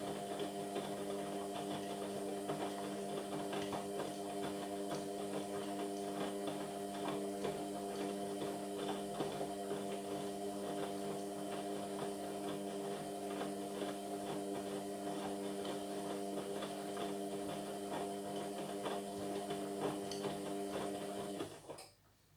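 Indesit MyTime washing machine's motor turning the drum during the wash: a steady motor hum with faint irregular ticking, which stops suddenly near the end.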